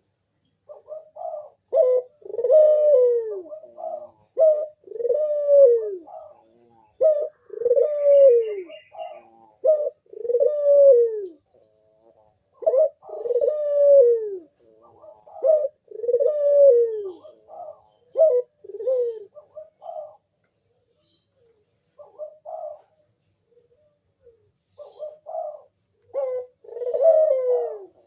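Puter dove (ringneck dove) in full calling song (manggung), giving one coo after another, each a note that swells and falls away, with a pause about two-thirds of the way through. Faint higher chirps come in briefly about eight seconds in.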